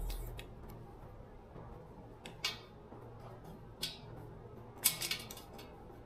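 A few short, sharp clicks and scrapes of tools and parts being handled during repair work, the loudest about five seconds in, over a faint steady hum.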